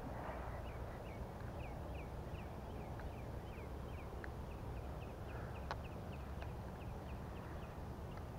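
A bird calling in a long steady series of short, high, falling chirps, about three a second, over a low outdoor rumble. A few faint sharp clicks come through in the middle.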